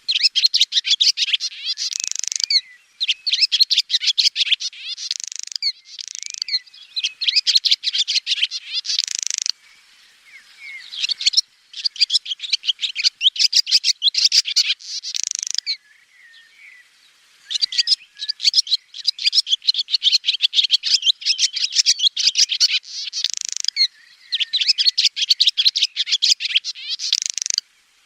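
Swallow twittering: bouts of rapid, high chirps and rattling trills, each a few seconds long, with short pauses about ten and sixteen seconds in.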